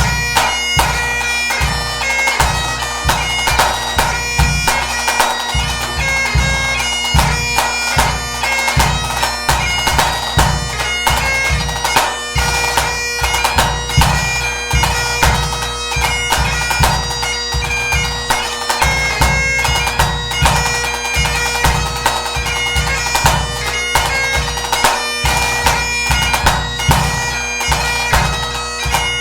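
Great Highland bagpipe playing a tune over its steady drones, with a pipe band bass drum keeping a regular beat under it.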